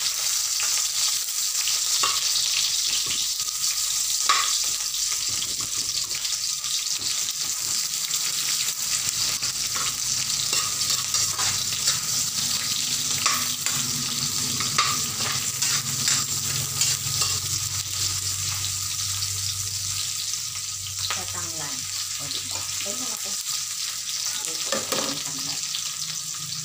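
Sliced red onion, garlic and ginger sizzling in hot oil in an aluminium wok, a steady frying hiss. A metal ladle stirs them, clicking and scraping against the pan now and then.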